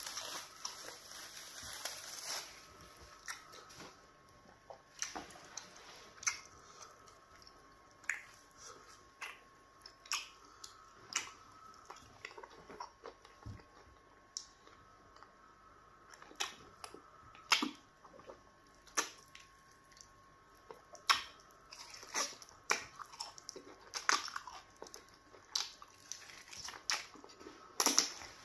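Plastic bag crinkling for the first couple of seconds as a ball of pounded yam fufu is unwrapped. Then close-up eating sounds: chewing, with irregular wet clicks and smacks of the mouth, as fufu dipped in slimy okra stew and turkey are eaten by hand.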